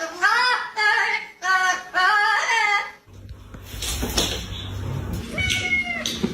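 A high voice sings a short phrase of about five bending, rising-and-falling notes. It stops suddenly about three seconds in, and a low hum follows, with one short high call near the end.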